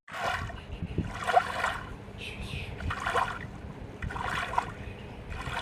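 Water sloshing and splashing in repeated surges a second or so apart, over a low rumble, with a short faint high-pitched sound a little after two seconds in.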